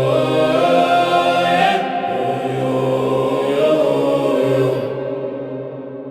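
Nordic ambient music: layered voices chanting long held notes, easing off in the last second or so.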